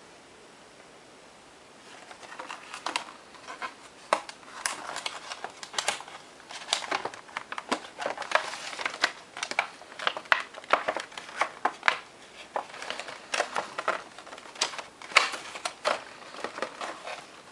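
Packaging of a diecast model airliner being handled and opened: plastic and foam crinkling and rustling with many irregular sharp clicks and taps, starting about two seconds in.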